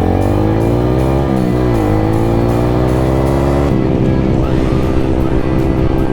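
Small motorcycle engine accelerating, its pitch rising, dropping briefly about a second and a half in as it shifts gear, then climbing again. A bit past halfway it settles into a steady cruising note. Background music with a steady beat plays over it.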